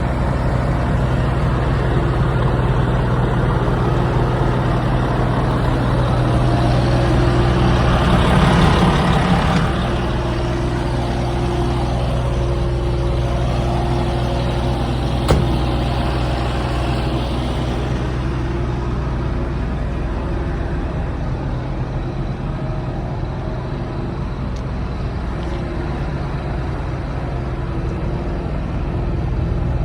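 Volvo FM410 truck's diesel engine running steadily with a low hum, swelling briefly about eight seconds in, with one sharp click about halfway through.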